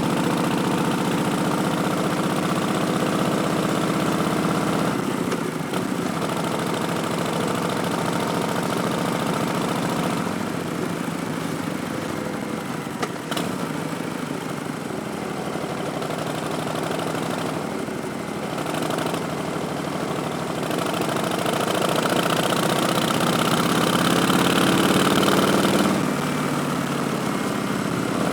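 Harley-Davidson Street Bob's Milwaukee-Eight 107 V-twin running through Vance & Hines Twin Slash slip-on mufflers and an Arlen Ness Big Sucker intake while riding. The engine note rises and falls several times as the throttle is opened and rolled off, with sharp drops about five, ten and twenty-six seconds in.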